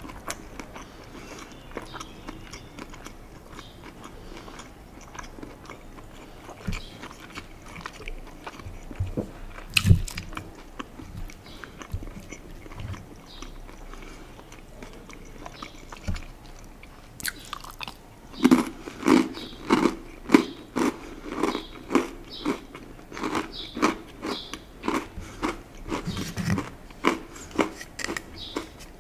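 Close-miked eating of crackers and tofu. Soft chewing and mouth clicks come first, with one sharp bite about a third of the way in. From about two-thirds through there is loud, crunchy, rhythmic chewing at about two chews a second.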